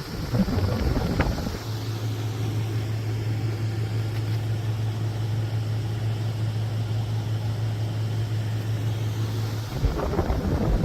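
GoveeLife H7151 dehumidifier running with a steady low hum and fan noise. Bouts of rumbling and knocking come about a second in and again near the end.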